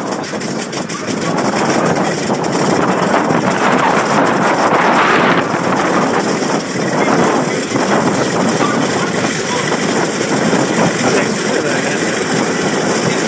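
F4U Corsair's Pratt & Whitney R-2800 eighteen-cylinder radial engine running, a loud, steady rumble that grows a little louder about two seconds in.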